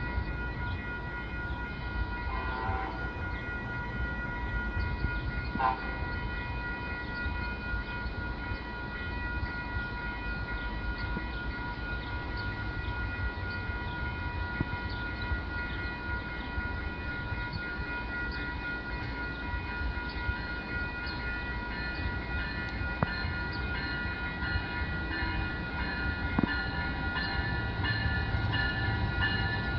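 Train running, a steady low rumble with a constant high whine of several tones over it.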